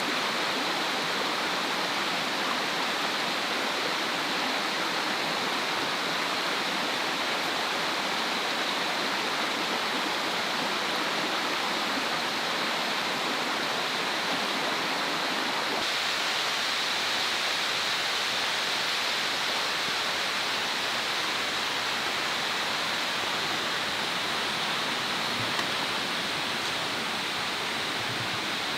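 A steady, even rushing hiss with no breaks or separate clicks.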